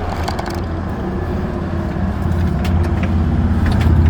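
Forklift engine running steadily with a low hum, growing louder near the end as it drives and lifts a load, with a few light knocks.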